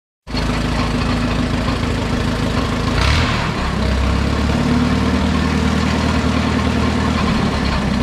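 Allis-Chalmers WD tractor's four-cylinder engine running steadily at idle, smooth and even. About three seconds in there is a short rasp and the low note grows fuller and deeper.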